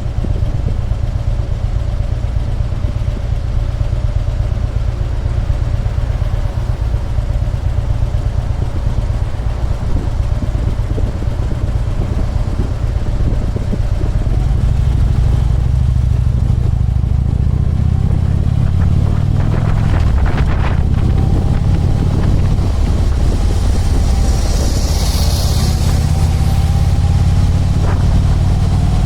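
Harley-Davidson Electra Glide's V-twin engine running steadily while riding in city traffic, with a low rumble that grows louder about halfway through. A brief hiss comes near the end.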